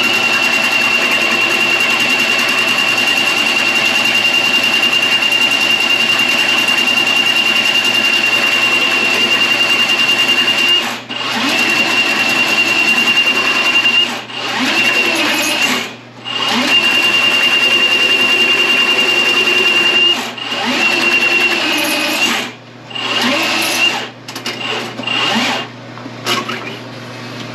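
Electric drain-cleaning machine running, its motor whining steadily for about eleven seconds, then stopping and restarting several times in shorter runs, with brief on-off pulses near the end.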